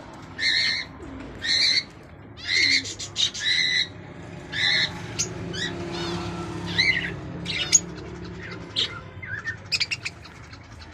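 Caged lovebirds and other aviary birds calling: short shrill chirps repeated about once a second, with a quick run of falling chirps midway.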